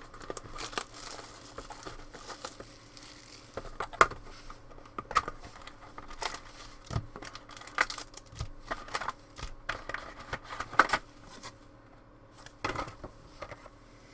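Trading-card packaging being torn open by hand: plastic wrap crinkling and tearing in irregular crackles, with a short lull about three quarters of the way through.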